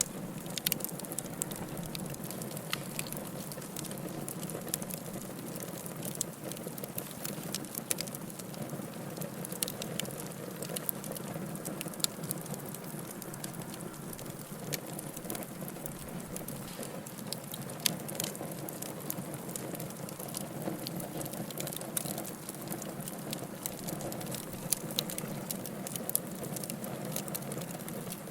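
Wood fire crackling in a fireplace: a steady low hiss of burning with frequent small sharp pops, and a few louder snaps scattered through.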